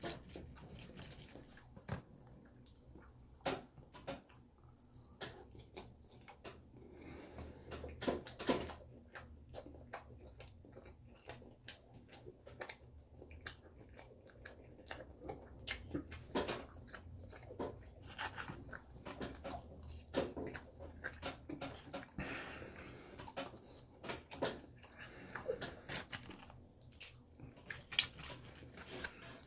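Close-up chewing and mouth sounds of a person eating loco moco and gravy fries, with a plastic fork and knife scraping and tapping in a foam takeout container. The sounds come as short, irregular clicks and smacks throughout.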